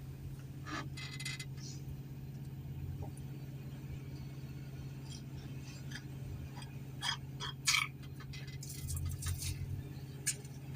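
Heavy machine's diesel engine idling with a steady low drone, heard from inside the cab, with scattered light clicks and rattles and a couple of sharper knocks about seven seconds in.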